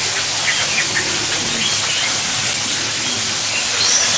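Birds chirping now and then over a steady hiss.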